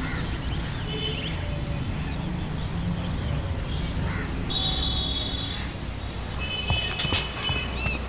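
Birds calling in short chirps: about a second in, around the middle, and again near the end, over a steady low rumble of outdoor ambience. A few sharp clicks come near the end.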